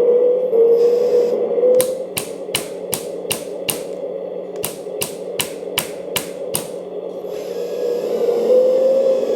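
RC hydraulic excavator's hammer (breaker) attachment striking in two quick runs of about six sharp clicks each, roughly three a second, with a short pause between. Around them the machine's hydraulic pump whines with a wavering pitch.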